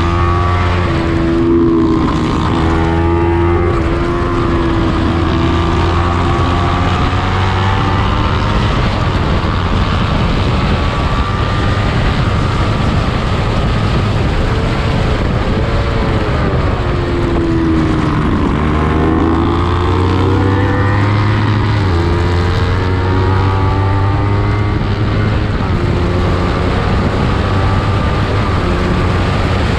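Small-displacement (300-class) racing motorcycle engine at high revs, rising and falling in pitch as the bike accelerates and shifts. The pitch dips markedly about halfway through, then climbs again, over a steady rush of noise.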